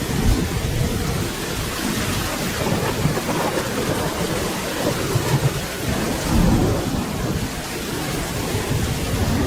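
Steady rain falling, with low thunder rumbling underneath that swells up several times.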